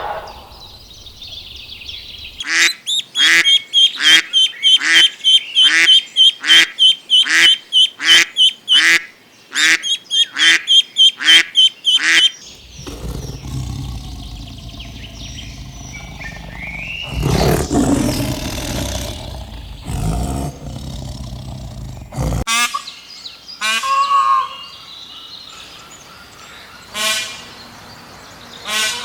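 Birds calling: a fast run of repeated pitched calls, about two a second, that stops about twelve seconds in. It is followed by scattered single calls over a low rumbling background.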